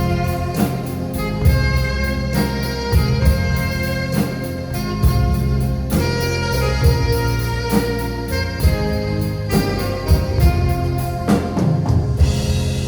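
Live instrumental band music on alto saxophone, keyboard and drum kit, with a steady beat of drum hits about twice a second; a cymbal wash comes in near the end.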